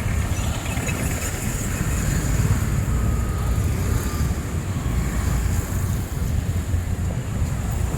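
Steady city street noise: a low rumble of passing traffic with wind buffeting the microphone.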